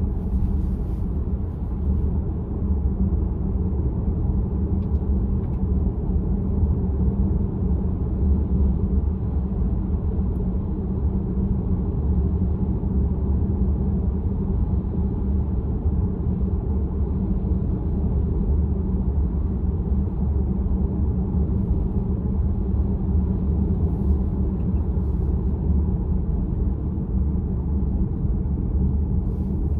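Steady low tyre and road rumble inside a VW ID.4's cabin while driving, with no engine note.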